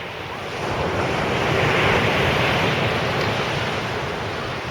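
A sea wave breaking on the beach: the surf noise swells to a peak about two seconds in and then fades as it washes back, with some wind buffeting the microphone.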